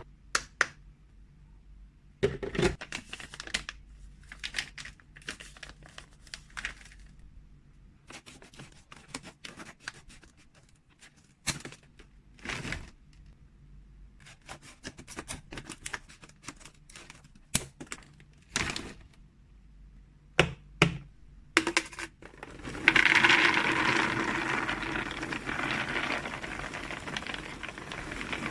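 Packaging of freeze-dried cat treats being handled: scattered crinkles, taps and sharp clicks, then a loud continuous rustle for the last five seconds or so that slowly tails off.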